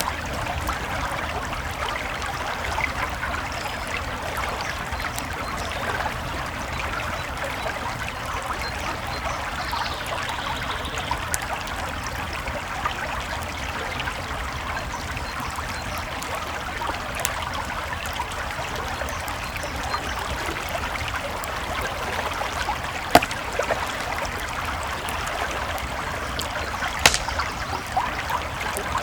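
Creek water flowing steadily, with light crackles from a campfire and a few sharper pops near the end.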